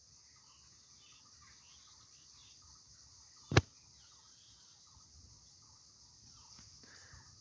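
A single sharp click about three and a half seconds in, over a faint steady hiss.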